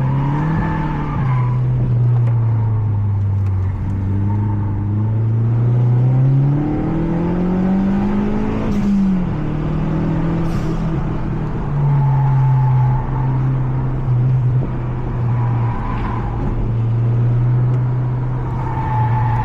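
Mazda 3 MPS's turbocharged 2.3-litre four-cylinder engine heard from inside the cabin at speed on track. Its pitch rises steadily under acceleration for several seconds, drops sharply about nine seconds in, and then runs at a steadier pitch.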